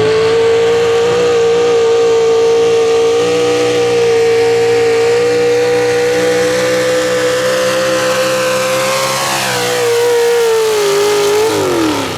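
Pro stock mini truck engine at full throttle under load during a pull, held at high revs with the pitch creeping slowly up. Near the end the revs dip, then fall away sharply as the throttle is let off.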